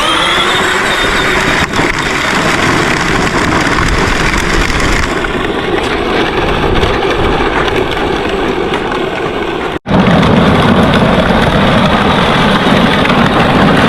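A vehicle runs steadily over rough ground, its motor noise mixed with tyre and rolling sounds. The sound drops out for an instant about ten seconds in, then carries on.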